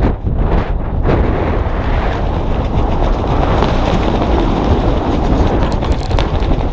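Strong wind buffeting the microphone: a loud, steady, low rumbling noise with no pitch to it.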